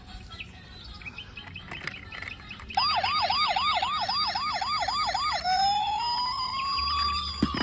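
Electronic police-style siren, likely a toy police car's. It starts about three seconds in with a fast yelp of about three to four sweeps a second, then changes to a slow rising wail.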